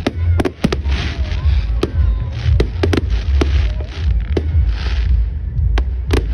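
Fireworks going off: about a dozen sharp bangs and cracks at irregular intervals, with short bursts of hissing between them.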